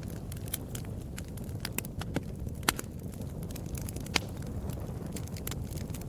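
Wood fire crackling in a fireplace: irregular sharp pops and snaps over a steady low rumble of burning, with two louder pops near the middle and about two-thirds of the way through.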